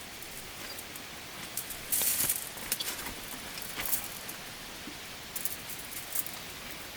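Intermittent rustling and light crackling, like dry leaves or brush being disturbed, over a steady outdoor hiss; the loudest rustle comes about two seconds in.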